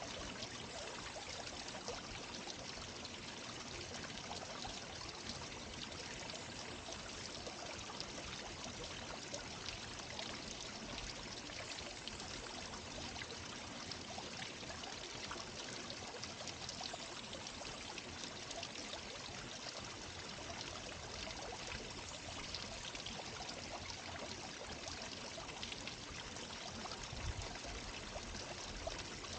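Garden water fountain running steadily, water pouring and splashing into its basin. There is a brief low thump about 27 seconds in.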